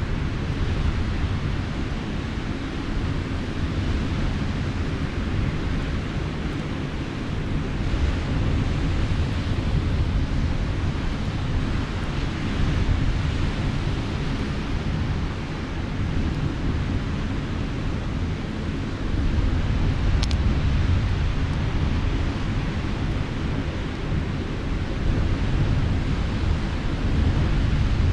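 Sea waves washing on the shore, a steady low rumble of surf swelling slightly now and then, with wind buffeting the microphone. One faint click comes about two-thirds of the way through.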